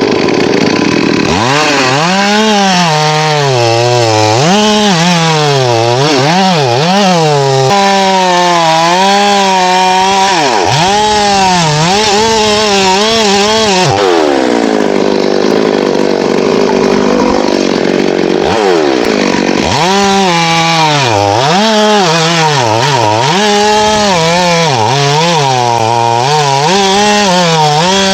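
Two-stroke chainsaw running through teak wood. Its engine pitch rises and falls again and again as it is revved and loaded in the cut, with a lower, steadier stretch of cutting about halfway through.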